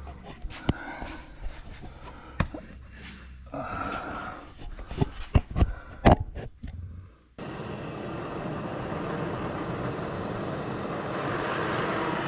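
Clicks and knocks of tools being handled. About seven seconds in, a gas torch starts burning with a steady rushing hiss, heating seized exhaust stud nuts to free them.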